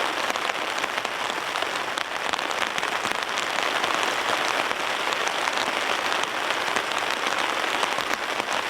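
Rain falling steadily, a dense patter of many small drop ticks.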